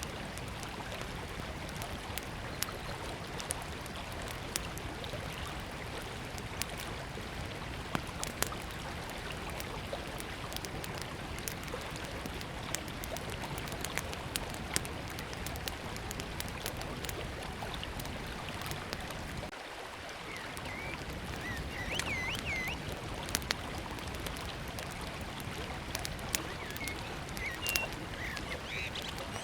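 River water flowing steadily, with a small wood campfire crackling and popping in sharp scattered snaps. A bird chirps a few times in the second half.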